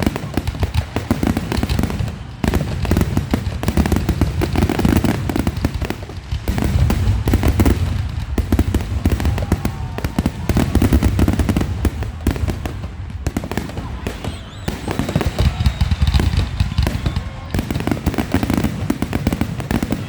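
Fireworks going off in a dense, continuous barrage: rapid crackling pops over a heavy low rumble of bursts, rising and falling in waves every few seconds.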